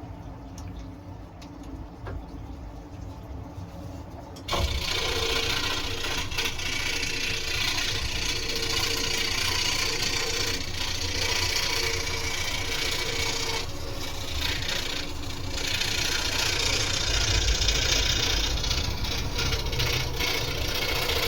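Scroll saw switched on about four and a half seconds in, then running steadily with its blade cutting through wood.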